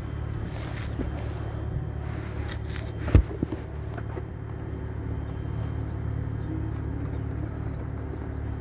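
A vehicle engine idling with a steady low hum, and a single sharp knock about three seconds in.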